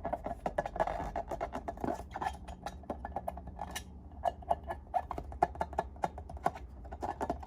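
Slime being worked by hand, giving a close, irregular run of small sticky clicks and pops.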